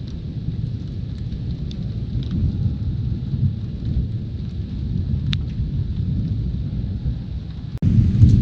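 Thunder rumbling low and continuously during a thunderstorm, with rain and a few scattered drop ticks. Near the end the rumble breaks off suddenly and a louder peal of thunder starts.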